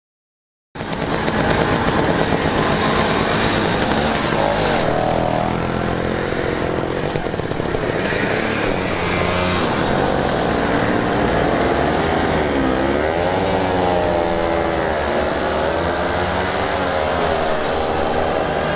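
Several vintage two-stroke mopeds running and pulling away, their small engines revving so the pitch rises and falls. The sound cuts in abruptly about a second in.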